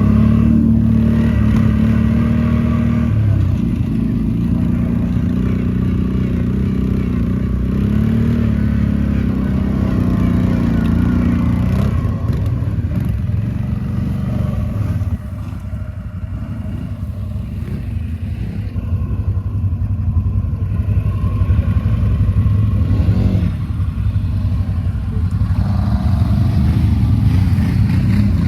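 ATV engine running and being throttled, its pitch rising and falling. It eases off and drops in level about halfway through, then picks up again.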